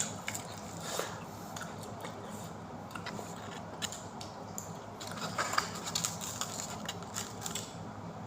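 Close-up sounds of a person chewing and biting into pizza, with scattered small crunches and mouth clicks.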